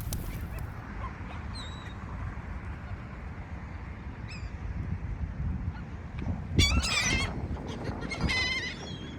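Gulls calling over a low, steady background rush: a few faint short calls at first, then a loud run of wavering calls about six and a half seconds in and another about a second later.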